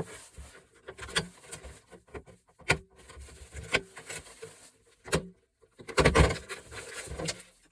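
Copper cables being pulled and handled while stripping a gas stove for scrap: scattered sharp clicks and knocks with light rubbing between them, and a louder clatter about six seconds in.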